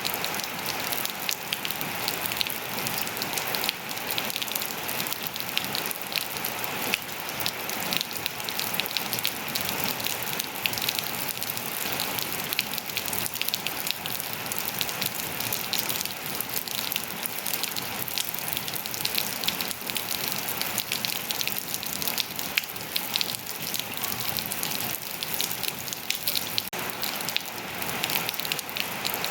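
Steady rain falling and pattering on surfaces, a dense hiss full of countless small drop ticks.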